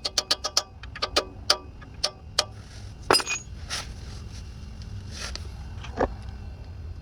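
Metal hand-tool sounds: a fast, even run of ratchet-like clicks that stops less than a second in, then scattered single clicks and clinks, with a louder knock about three seconds in.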